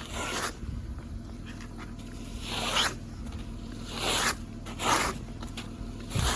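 Ice-crusted snow crunching and scraping in four or five separate short rasping bursts.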